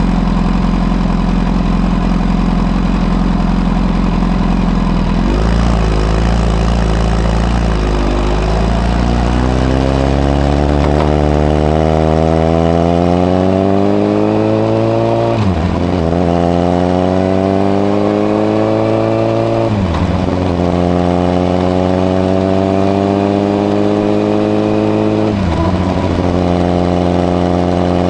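Honda CBR1000RR's inline-four engine through a modified Moriwaki exhaust with the baffle fitted: a steady low running note, then the bike pulls away and accelerates, the engine note rising in pitch and dropping back at each of two upshifts before settling to a steadier cruise, with another gear change near the end.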